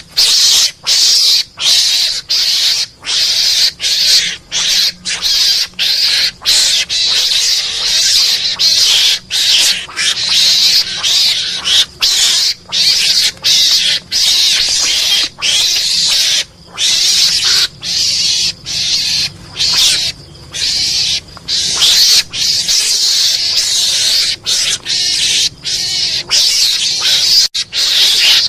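Mongoose (garangan) lure call: high, harsh cries repeated in quick runs, broken by short pauses every second or so.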